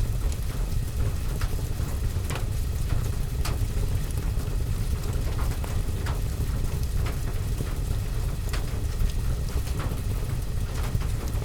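Rain on a window mixed with a crackling fireplace fire: a steady low rumble with scattered sharp pops and crackles every second or so.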